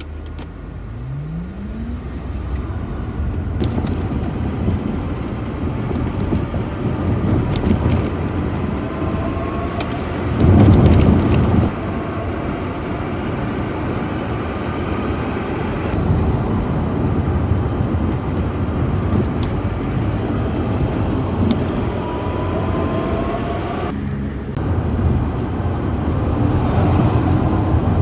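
Toyota COMS single-seat electric microcar driving, its motor whine rising in pitch as it pulls away, over steady road and body rumble. Partway through, a louder jolt lasts about a second, and the whine rises twice more. The car is a month old and has developed an abnormal noise.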